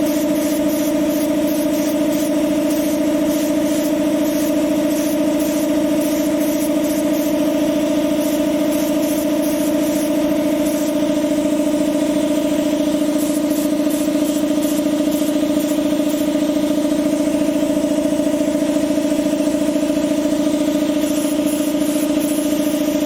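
A machine running with a steady, unchanging hum, one strong low tone and its overtones.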